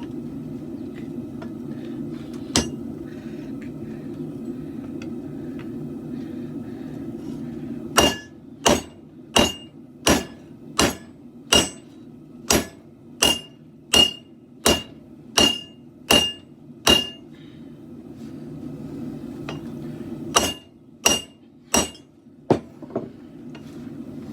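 Hand hammer forging a steel blade on an anvil. There is one blow, then a steady run of about thirteen ringing strikes a little under a second apart, a pause, and a shorter run of about five more. A steady low roar runs underneath the blows.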